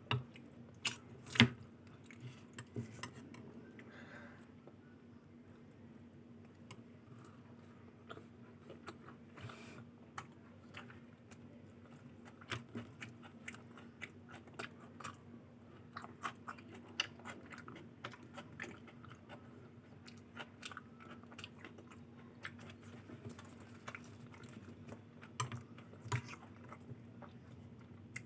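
Close-miked chewing and biting of a meal of luchi with ghughni and aloor dum: irregular soft mouth clicks and light crunches, louder in the first couple of seconds, over a faint steady low hum.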